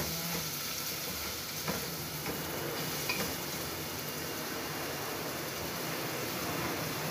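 Onion, ginger-garlic paste and tomato paste sizzling in oil in an aluminium pot, with a wooden spoon stirring and scraping against the pot.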